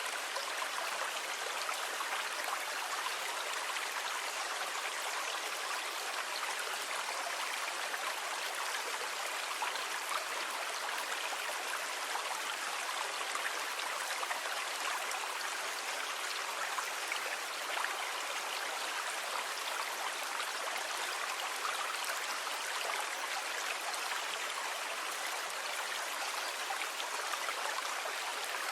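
Rushing water in a steady, even hiss, with no rise and fall of separate waves.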